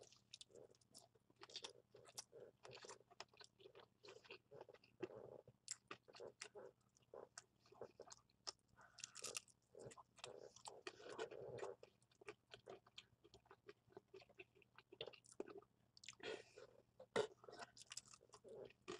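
A person biting and chewing a fried chicken drumstick close to the microphone: faint, irregular mouth clicks and smacks, with a few longer bursts of chewing.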